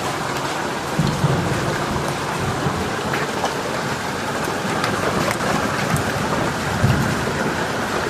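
Heavy thunderstorm rain pouring steadily, with scattered sharp ticks of drops striking surfaces. Low rumbles of thunder swell about a second in and again near the end.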